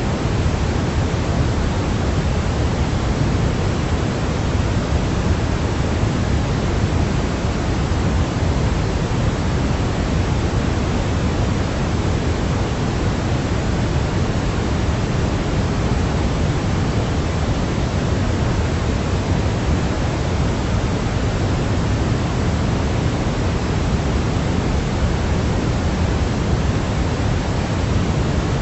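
Steady, unchanging sleep noise of the kind sold as white noise, heavier in the low end so that it sounds more like pink noise: an even, featureless rush with no breaks or changes.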